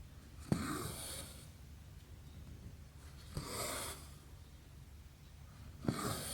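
Needle clicking through cross-stitch fabric, then embroidery floss drawn through with a short rasping swish, three times about two and a half seconds apart, over a low steady hum.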